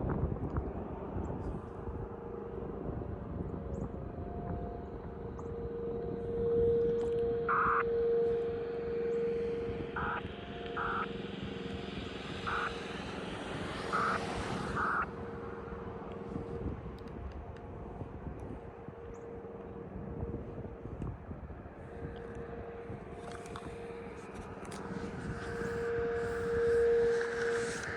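Distant outdoor warning siren holding a steady tone that swells and fades every several seconds as the siren rotates. A passing vehicle or aircraft rises and falls about halfway through.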